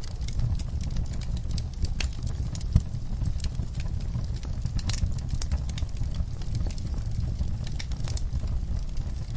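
Wood fire burning in a fireplace: a steady low rush of flame with irregular crackles and snaps, and one louder pop about three seconds in.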